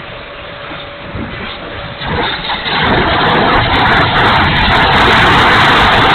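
70mm electric ducted fan of an E-flite F-16 RC jet running up, a rushing noise that jumps louder about two seconds in and holds, with wind buffeting the microphone.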